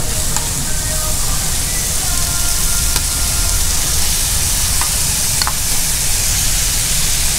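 Chopped cabbage and seafood sizzling on a hot tabletop iron griddle as they are scraped out of a bowl: a steady frying hiss, with a few light utensil clicks.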